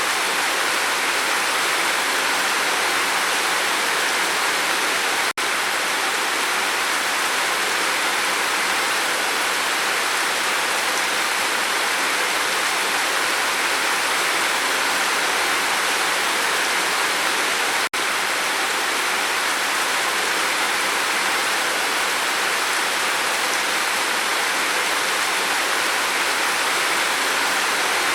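Steady heavy rain falling on a roof, an even, dense hiss. It cuts out for an instant twice, about 5 seconds in and again about 18 seconds in.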